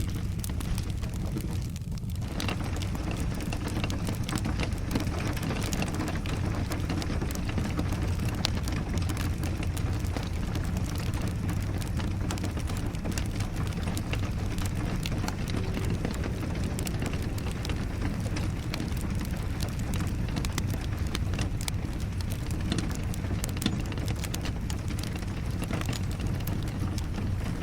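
Steady rain with a wood fire crackling: an even hiss over a low rumble, dotted with many small sharp ticks and pops.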